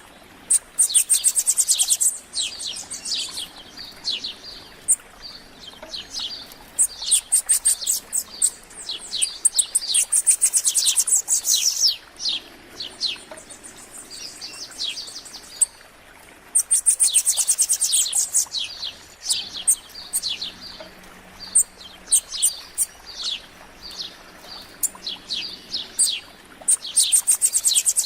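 A small songbird singing bursts of rapid, high, thin notes, each lasting a second or two, again and again, with scattered single chirps from birds in between.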